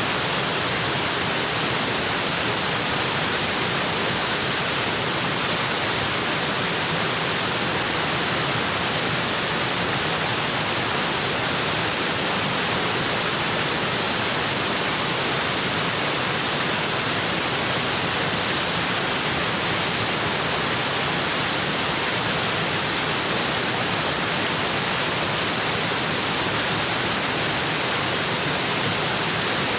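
Waterfall with water pouring onto rocks, a steady, even rush of water.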